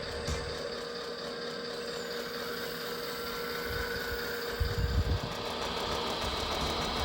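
Hydraulic pump of a 1/25-scale RC Liebherr R9800 excavator running with a steady whine, with a few low thumps about two-thirds of the way through.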